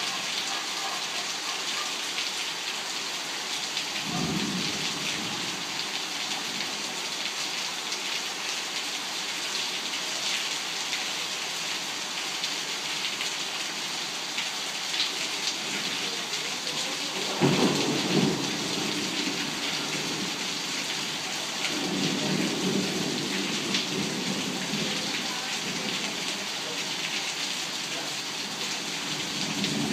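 Torrential rain pouring steadily, with thunder rumbling: a short roll about four seconds in, the loudest clap a little past halfway, and longer rumbles near the end.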